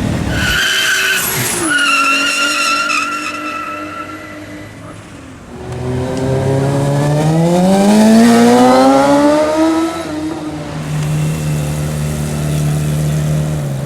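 Sport motorcycle engines. First a high-revving bike goes by, its pitch dropping once as it passes and then falling slowly away. About halfway through, another engine rises steadily in pitch under hard acceleration for about four seconds, then settles to a steady lower note.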